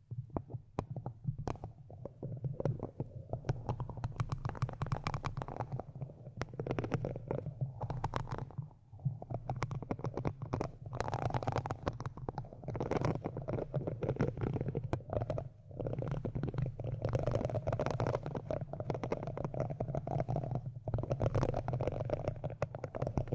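Close-up ASMR scratching and rubbing right on a microphone: a continuous crackly scratch over a low rumble, broken by a few short pauses.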